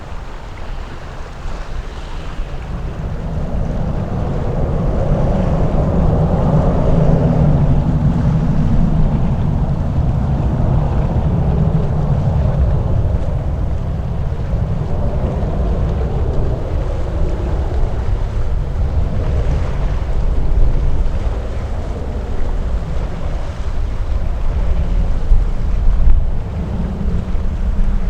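Jet airliner engines at takeoff thrust: a deep rumble that builds over the first few seconds and stays loud, with wind buffeting the microphone.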